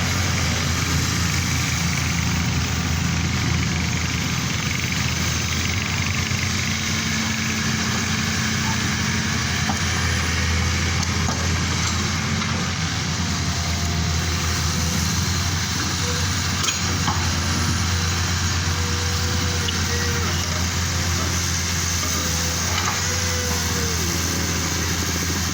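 Heavy equipment engines running steadily, a constant low drone that holds the same level throughout.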